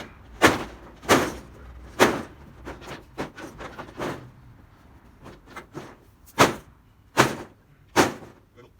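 Repeated sharp bangs and clatter of corrugated tin roofing sheets being worked apart and handled, about seven loud strikes with a quieter stretch of lighter knocks in the middle.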